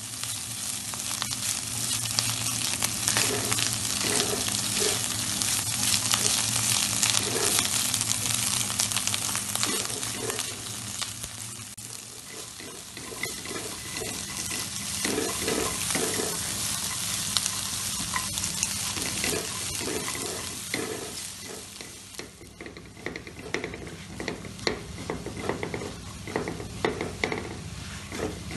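Diced Chinese sausage and vegetables sizzling in a nonstick frying pan while a spatula stirs them. The sizzle dies down after about twenty seconds, and then the spatula's scraping strokes against the pan stand out near the end.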